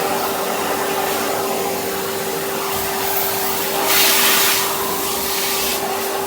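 Vacuum cleaner running through its hose and brush tool, a steady rushing noise with a steady motor hum. About four seconds in there is a louder rush of air for about half a second.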